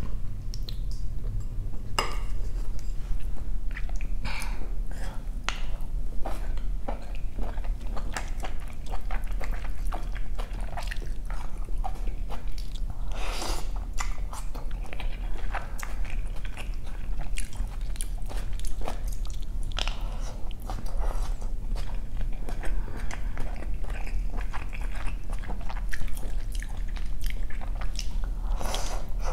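Close-miked eating sounds: wet chewing and mouth clicks as spoonfuls of tom kha coconut soup with chicken and mushrooms are eaten. Two louder, longer mouthfuls are taken off the spoon, one midway and one near the end.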